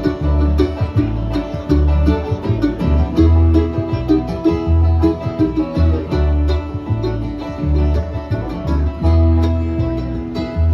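Acoustic bluegrass string band playing instrumentally: picked banjo, guitar and mandolin over a steady alternating bass line.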